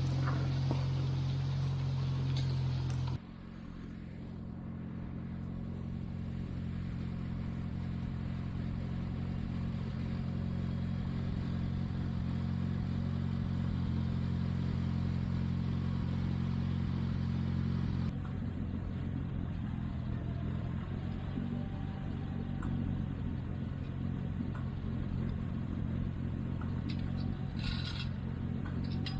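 Tractor engine running at a steady speed. Its note changes abruptly twice, about three seconds in and about two-thirds of the way through, and there are a few light clanks near the end.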